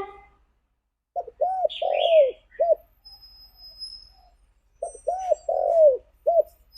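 Spotted dove cooing: two phrases of about four rounded coo notes each, one starting about a second in and the next near five seconds. Faint high chirps and a thin high whistle from another bird sound in between.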